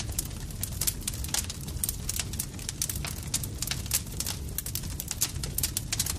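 Campfire crackling: dense, irregular sharp pops and snaps over a steady low rumble of the burning fire.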